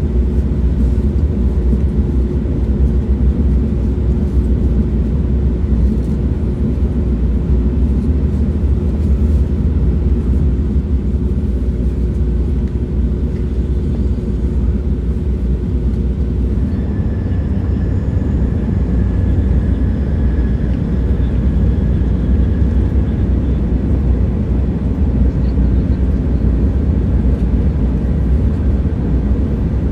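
Train running with a steady low rumble. A faint steady hum in the first half gives way, about halfway through, to a faint higher whine.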